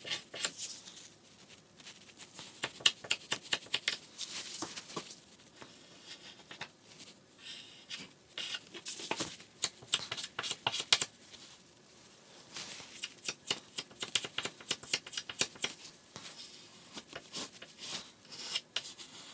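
Irregular clicks, taps and rustles of hands handling things at close range, with no machine running.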